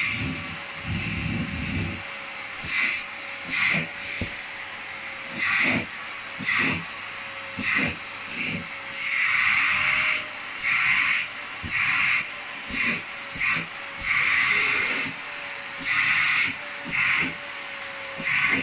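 Vacuum cleaner running steadily, with irregular louder hissing surges every second or so as the nozzle is drawn over a cat's fur.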